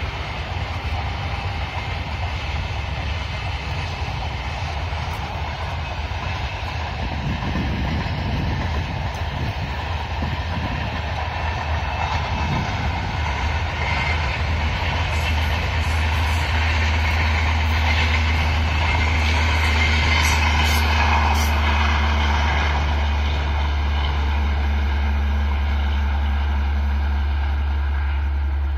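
Train of LHB passenger coaches rolling past on the track: a steady rumble of wheels on rail with scattered clicks, growing somewhat louder around the middle.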